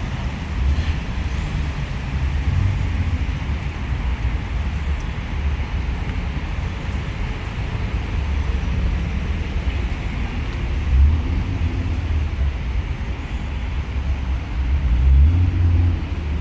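Rush-hour city street traffic: a steady low rumble of engines and tyres from passing vehicles, swelling briefly about eleven seconds in and again near the end.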